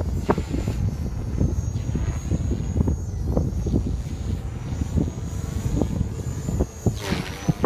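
ALZRC Devil 480 electric RC helicopter flying, its high motor and rotor whine dipping in pitch now and then, with a louder rushing sweep near the end. Strong wind buffets the microphone throughout.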